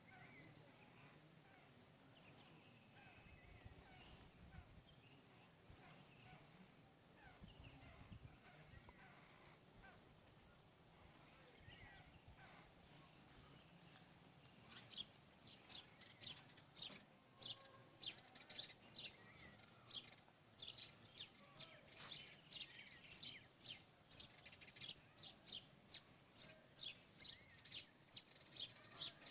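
Faint high chirping of rose-ringed parakeets (Indian green parrots): short, sharp calls that start about halfway in and come at about two a second, over a steady high-pitched whine.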